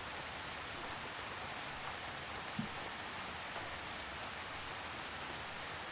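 Steady gentle rain: an even, soft hiss of drizzle falling without a break.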